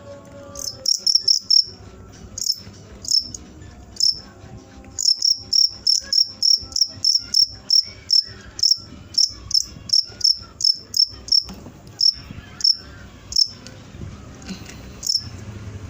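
Cricket chirping: short, sharp, high-pitched chirps, scattered at first, then a long even run of about three a second, thinning out towards the end.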